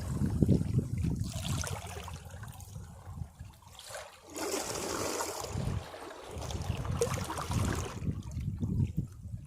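Sea waves washing against rocks, rising and falling in irregular surges with brief splashes, and water trickling and gurgling back between them; a lull about four seconds in.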